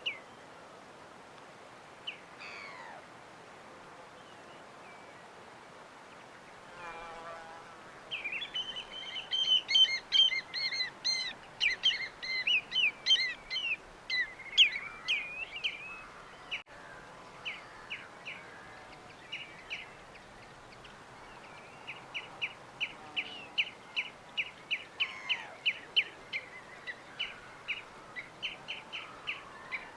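Songbirds singing over a faint steady background hiss. About eight seconds in comes a dense, varied burst of song lasting several seconds. Later a bird repeats a short chirp about twice a second to the end.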